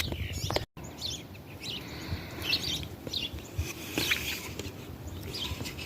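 Birds chirping in short, scattered high calls over a low rumble.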